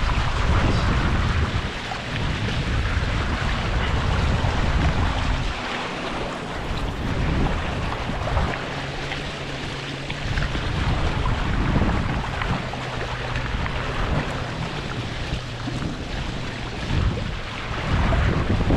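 Wind buffeting the microphone and water rushing along the hulls of a Hobie 16 catamaran under sail, an uneven rushing noise with a low rumble that swells and dips.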